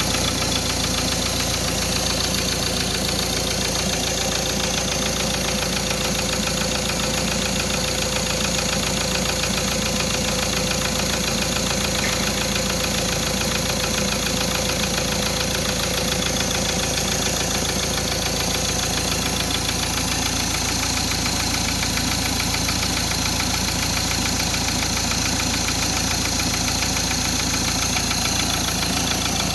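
2013 Mazda BT-50's 2.2-litre four-cylinder turbo diesel engine idling steadily.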